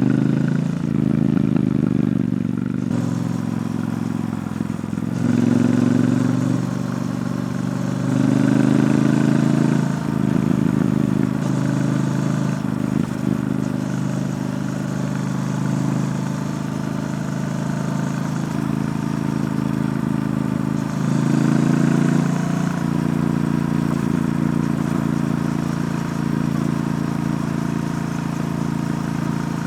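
Triumph Bonneville T120's parallel-twin engine through its stock exhaust while riding, with several swells of acceleration between steadier cruising and easing off.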